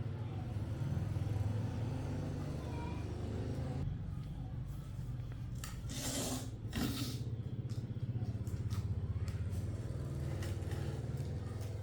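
Portable tyre inflator's small piston compressor running with a steady low buzz, with a short hiss about six seconds in.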